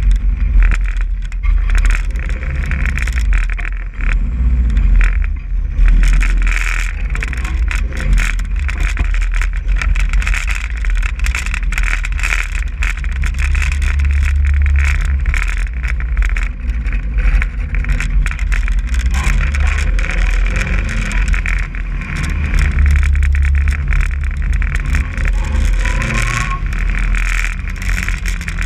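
Demolition derby car's engine running as it drives, under a heavy low rumble, with frequent rattling clicks throughout.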